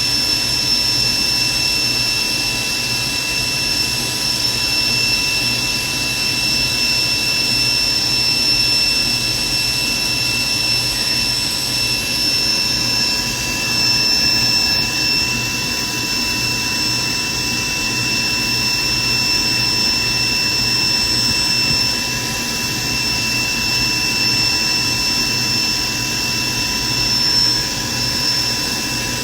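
Private jet's engines running steadily: a constant loud rush with a high, steady whine.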